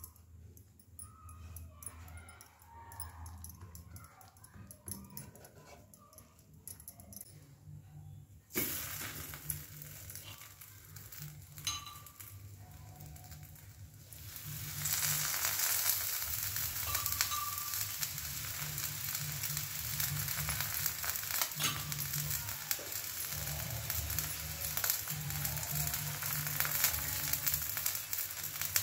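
Stuffed paratha sizzling in oil on a hot flat griddle (dosa tawa). The sizzle starts suddenly about nine seconds in and grows louder about halfway through.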